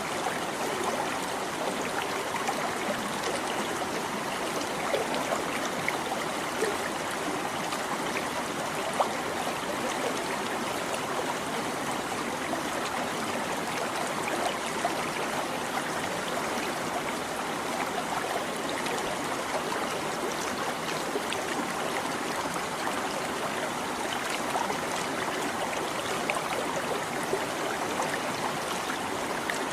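A small stream babbling and trickling steadily, with small splashes and drips flicking through the even rush of water.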